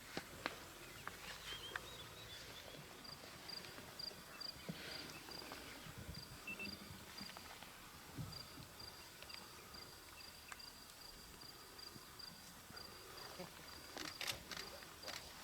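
Faint bush ambience with an insect chirping in a fast, even series of high-pitched pulses that begins about three seconds in. Occasional small clicks and soft thumps sound over it.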